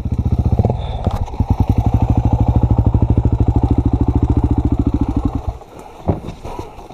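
Honda XR250's single-cylinder four-stroke dirt-bike engine pulling under throttle on a trail, a steady run of firing pulses that drops back to a low level a little after five seconds in. A few knocks follow near the end.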